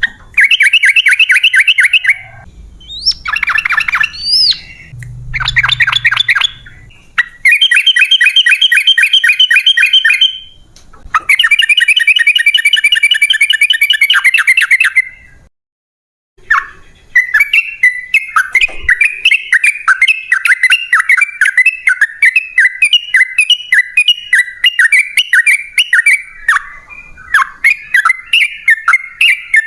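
Yellow-vented bulbul (trucukan) singing loud bursts of rapid chattering notes, several runs of two to four seconds with short breaks. From a little past halfway it goes into one long unbroken rapid series, the long 'ropel' song.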